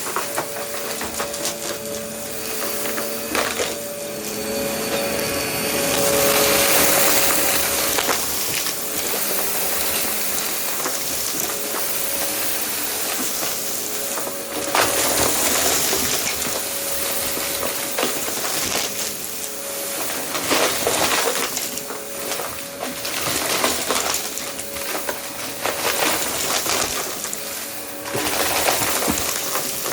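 Vacuum cleaner running with a steady motor whine while picking up a test mess, with debris rattling and clicking through the nozzle and hose.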